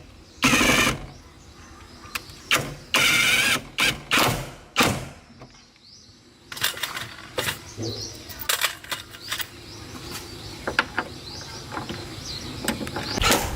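Car repair work: metal tools and parts clinking and knocking, with two short, loud mechanical bursts in the first few seconds and a brief lull about halfway through.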